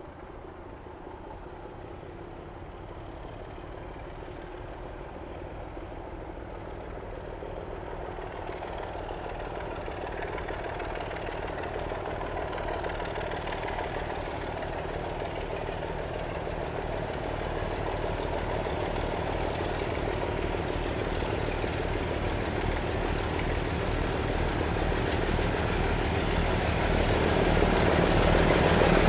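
Diesel locomotive approaching, its engine note growing slowly and steadily louder throughout.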